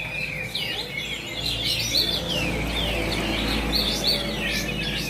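Many caged songbirds singing at once in a song contest: a dense chorus of overlapping chirps, whistles and rapid warbling trills, over a low background murmur.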